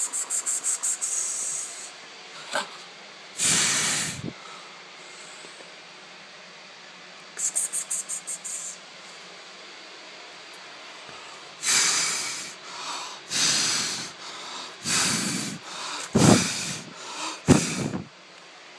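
Short gusts of rushing air, each under a second, coming several times close together in the last third. A quick high rattling series sounds at the start and again about seven seconds in.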